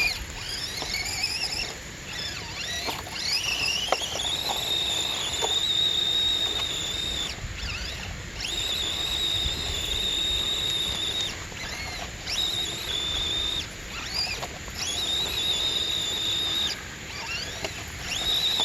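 Motor and drivetrain of an Axial SCX24 micro RC crawler whining at high pitch. The whine comes in several throttle bursts: each rises quickly, holds steady for a second or more, then cuts off. Short clicks and knocks are scattered between the bursts.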